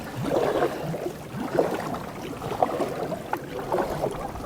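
Canoe being paddled: water swishing and gurgling around the paddle and hull, with a few light knocks.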